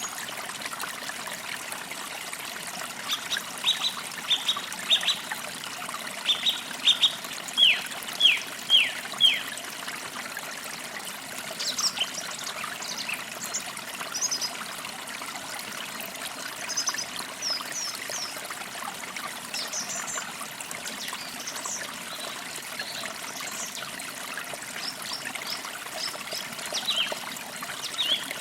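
Forest creek trickling steadily, with birds singing over it: from about three seconds in, a run of about a dozen quick, loud downward-sliding notes, then scattered higher chirps for the rest.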